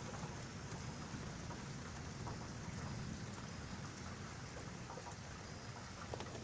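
Steady rain falling during a thunderstorm, with a low rumble of thunder underneath and a few faint drip clicks.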